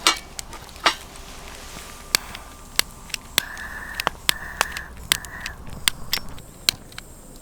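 Wood campfire crackling, with sharp, irregular pops and snaps from the burning wood. Three short hissy sounds come in the middle.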